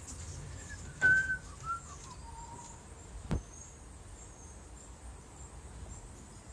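A knock about a second in as the wooden door frame is handled, with a bird's few short whistled notes stepping down in pitch just after it. A single sharp click follows a little past three seconds.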